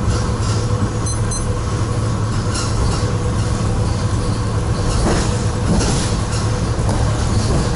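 ED4MK electric commuter train heard from inside the carriage while running: a steady low rumble from the wheels and running gear with a faint steady hum over it, and a brief louder rushing patch about five seconds in.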